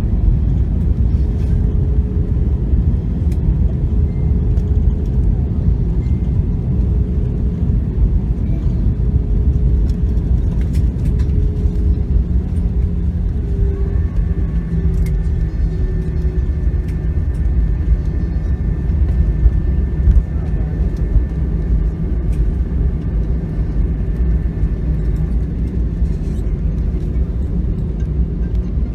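Airliner cabin noise after landing: a steady deep rumble of the engines and wheels as the plane rolls on the ground. A faint higher whine comes in about halfway through.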